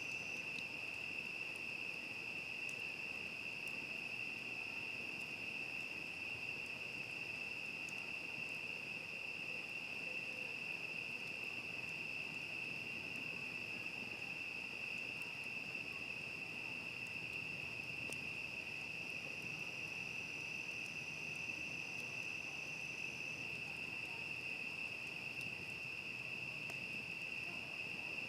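Crickets trilling steadily in a continuous night chorus at one high pitch, with a second, higher insect band sounding briefly at the start and again for a few seconds about two-thirds of the way through.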